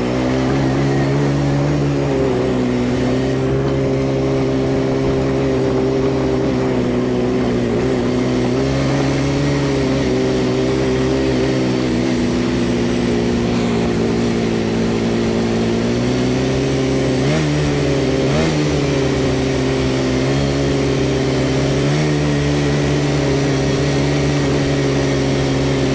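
ATV engine running at a steady pace, its pitch wavering slightly with the throttle and dipping then rising briefly a little past halfway.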